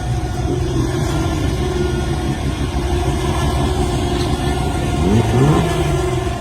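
Turbocharged 414 cid Chevrolet small-block V8 drag car engine idling with a choppy, uneven beat, blipped in a short rev about five seconds in.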